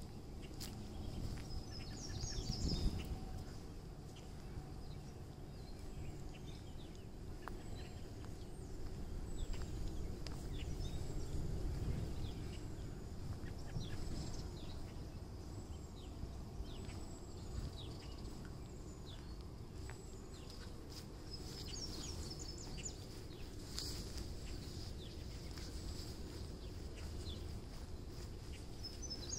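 Birds chirping on and off, with small clusters of quick high notes, over a steady low background rumble.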